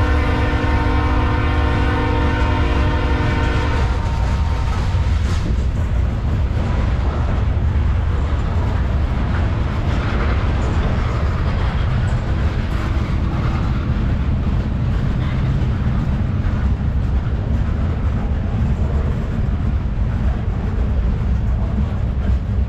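A diesel freight locomotive's air horn sounds a chord and cuts off about four seconds in. After that comes the loud, steady rumble of the BNSF freight train rolling past.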